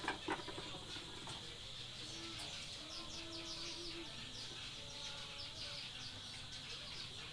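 Background birds chirping in quick, short, falling notes over a steady high hiss, with a low drawn-out call in the middle and a light clatter at the very start.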